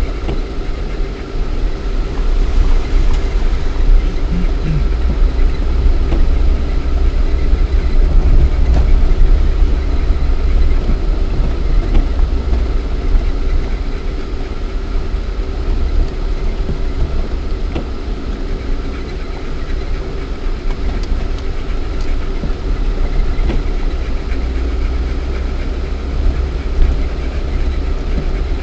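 Lada Niva 1.7i four-cylinder petrol engine and drivetrain running steadily while driving, heard from inside the cabin: a deep rumble with a steady drone over it and a few faint knocks.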